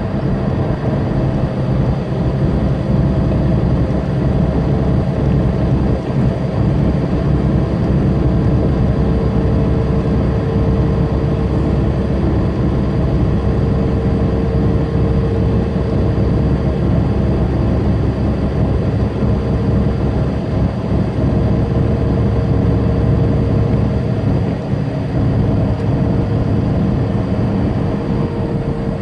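A semi truck's diesel engine running steadily at highway speed, with tyre and road noise, heard from inside the cab.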